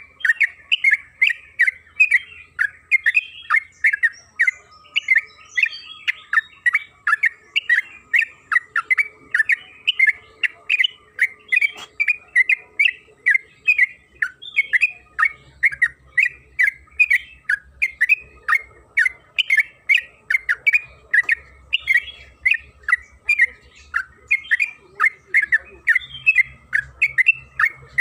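Yellow-vented bulbul (trucukan) singing a long, unbroken run of quick chirping notes, about two a second, as a lure song to set other trucukan singing. A faint steady high tone lies underneath.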